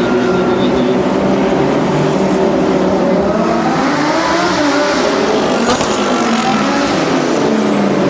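Lamborghini Super Trofeo race cars' V10 engines running hard, several engine notes at once, with one note rising and then falling a little past halfway through.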